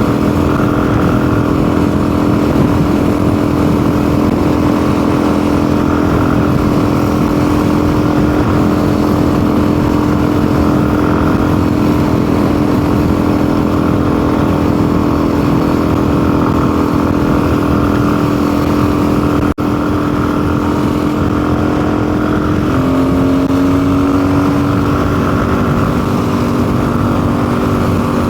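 Motorcycle engine running steadily at cruising speed on the road. About three-quarters of the way through, its note drops slightly and then slowly climbs again. The rider suspects a carburettor mixture problem on this custom build.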